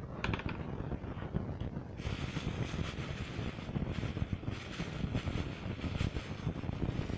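Wind buffeting the microphone: a steady low rushing rumble that turns brighter and hissier about two seconds in.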